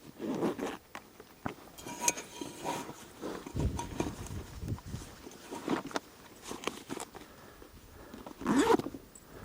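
Tangled weeds being cut and pulled from around a walk-behind tractor's wheels with a serrated knife: scattered snaps, rustles and dull thuds. Short strained vocal grunts come near the start and, loudest, near the end.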